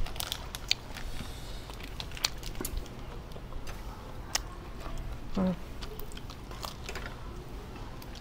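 Person biting into and chewing food close to the microphone, with scattered small crisp clicks and mouth sounds.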